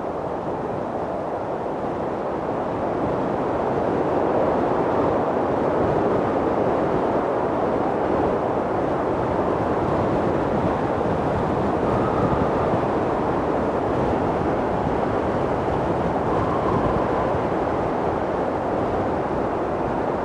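Strong mountain wind blowing in a dense, steady rush that swells a few seconds in, with faint whistling howls rising briefly near the middle.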